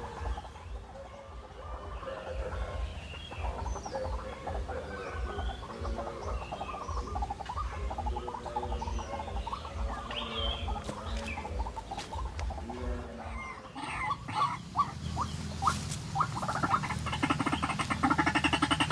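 Birds calling, with short chirps and calls throughout. Near the end there are a few sharp clicks, then a louder, fast run of repeated calls.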